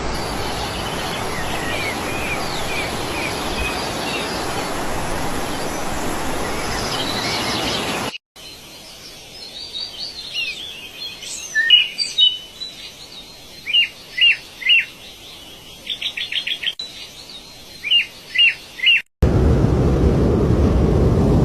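Wild birds chirping and calling: at first over a steady rushing background noise, then after a cut about eight seconds in as clearer separate calls, short downward-sweeping notes and quick trills. Near the end another cut brings in a loud, low, steady rushing noise.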